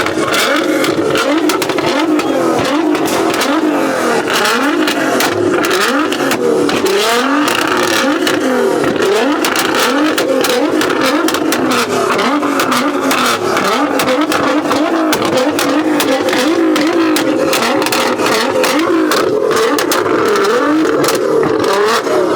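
Car engine held on a two-step launch rev limiter, its revs swinging up and down over and over while the exhaust crackles with rapid pops and bangs.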